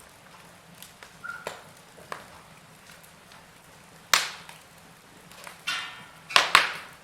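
Burning logs in a fireplace crackling, with sparse sharp pops over a quiet steady background. The loudest pops come about four seconds in and as a quick double pop near the end, just after a short hiss.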